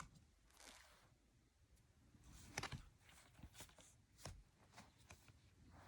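Near silence with a few faint rustles and soft clicks, the loudest about two and a half seconds in, as of a board book being handled.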